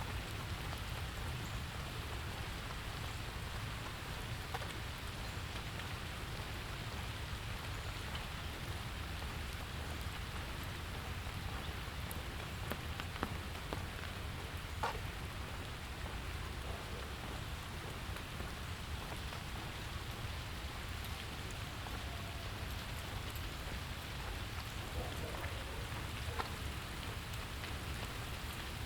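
Steady rain falling and pattering on surfaces, with scattered individual drop ticks and a low background rumble.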